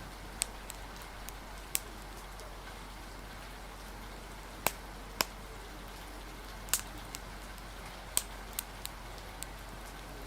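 Wood fire crackling, with sharp pops at irregular intervals, over a steady hiss of rain and wind.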